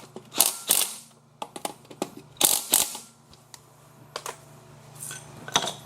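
Hand ratchet clicking in short strokes, probably snugging the wheel's lug nuts: pairs of rasping bursts with lighter clicks between.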